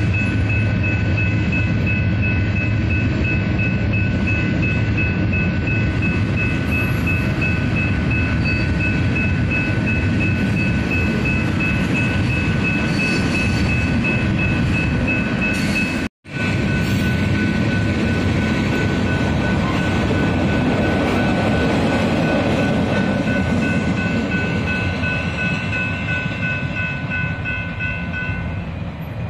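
A train rolling through a grade crossing, a steady rumble of cars on the rails, while the electronic crossing bell rings rapidly and steadily. The bell stops near the end and the rumble eases off. The sound cuts out completely for a split second about halfway through.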